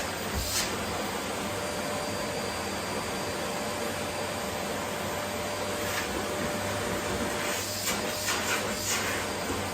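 Vacuum cleaner running steadily, with a few short swishing surges of hiss near the end.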